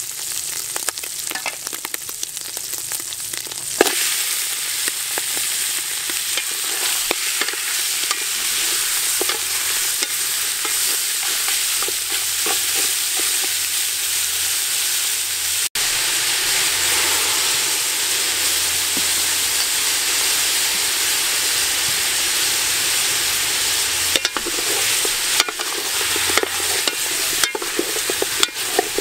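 Hot oil sizzling in an aluminium pot while dried shrimp and chopped garlic are stir-fried, a wooden spatula scraping the pot. About four seconds in the sizzle jumps louder and turns steady as raw pork pieces fry. Near the end the spatula scrapes and knocks again as the pork is stirred.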